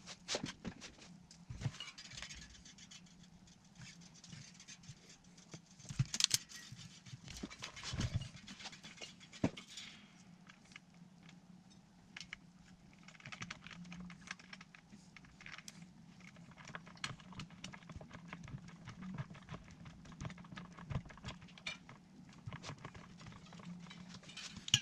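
Irregular clicks, taps and scratching of handling noise, with a few louder knocks about six and eight seconds in, over a steady low hum.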